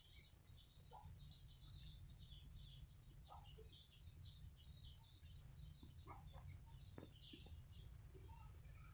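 Pet love birds chattering, faint: a steady stream of quick, high chirps and squeaks overlapping, over a steady low hum.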